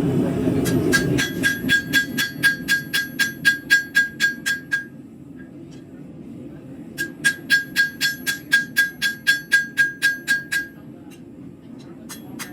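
Blacksmith's hammer striking hot steel on an anvil in two quick runs of about five blows a second, with a pause between. Each blow rings with a clear high tone.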